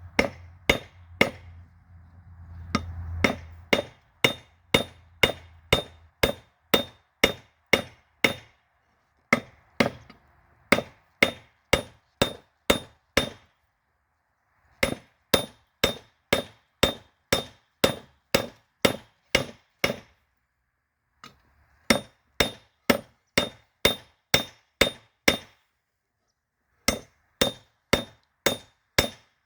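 Hammer striking a hot railroad spike on an anvil during forging: steady blows about two a second, in runs separated by short pauses, each with a bright metallic ring. A low steady hum and hiss runs under the strikes, strongest in the first few seconds.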